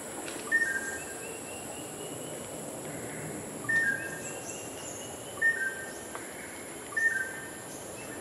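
Rainforest bird repeating a short call of two quick whistled notes, the second lower, four times about a second and a half apart, over the steady high-pitched hum of insects.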